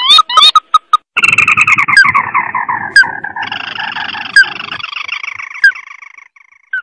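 Crake calls of the kind played as a bird lure. First comes a quick run of short rising notes, then a long rapid chattering trill that falls in pitch, with a few sharp single notes breaking through.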